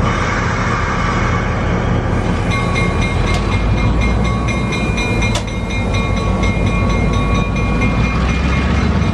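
Long Island Rail Road commuter train passing close by, with a loud, steady rumble. About two and a half seconds in, several steady high-pitched tones join it and run on, with a couple of sharp clicks.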